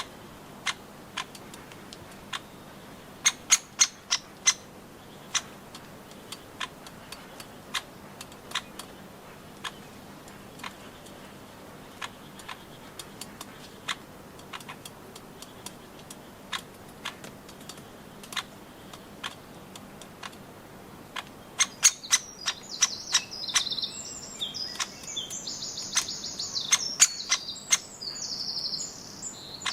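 Irregular sharp taps of woodpeckers pecking at nuts, a few a second at most. From about two-thirds of the way in they are joined by a dense run of high, chirping bird calls.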